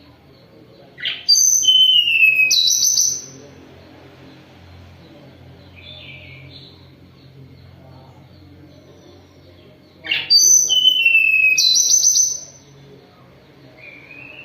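Tledekan gunung songbird singing two loud song phrases about nine seconds apart, each about two seconds of clear whistled notes, some sliding downward, over a faint low hum.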